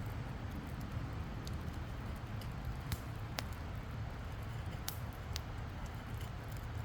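Wood campfire burning, a few sharp, irregular crackles and pops from the burning wood over a steady low rumble.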